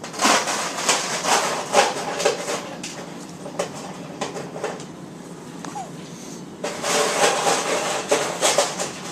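A dog blowing bubbles into the water in her bowl: rapid, rattling bubbling in two spells, the first at the start lasting about three seconds, the second starting near seven seconds in.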